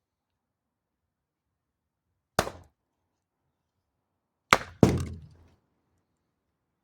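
Axe blows striking wood: one sharp chop, then about two seconds later a pair of chops in quick succession, each with a short cracking ring-out.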